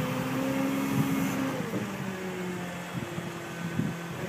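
Tractor motor running steadily, its pitch dropping about a second and a half in.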